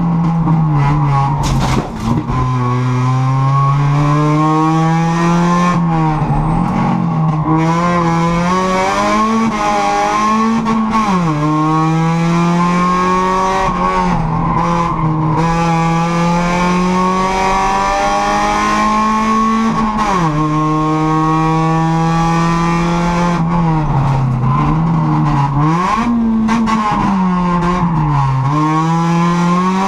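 A Honda hill-climb car's engine, heard from inside the cabin, revs hard under acceleration. Its pitch climbs steadily, then falls sharply several times at gear changes and lifts for corners.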